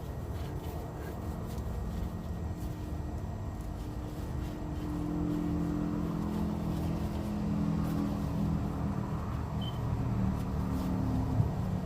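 A motor vehicle engine running, heard as a low rumble with a steady hum that swells about halfway through and eases off near the end.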